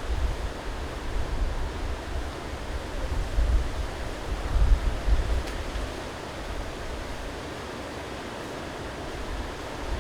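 Strong gusting wind buffeting the microphone with a low rumble over a steady rushing hiss, the gusts easing a little past the middle.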